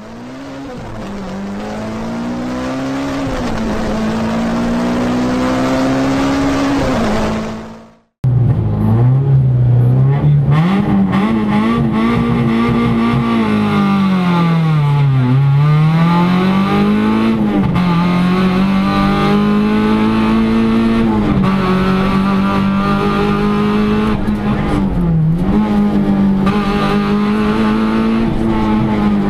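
VW Polo rally car engine heard from inside the cabin at high revs, its pitch climbing and dropping repeatedly through gear changes and lifts. The sound fades in, cuts out briefly about eight seconds in, then comes back louder, dropping low around the middle before climbing again.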